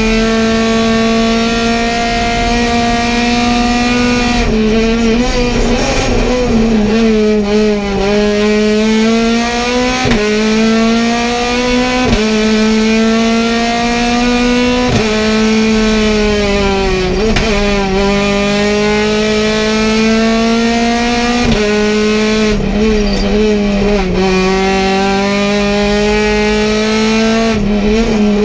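Competition car's engine heard from inside the cockpit, driven hard: its pitch climbs steadily under acceleration and drops sharply at each gear change, roughly every two to four seconds.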